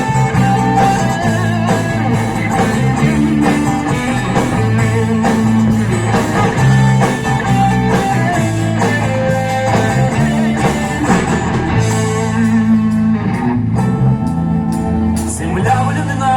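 Live band playing an instrumental passage: electric guitar carrying the melody over bass and a steady drum beat.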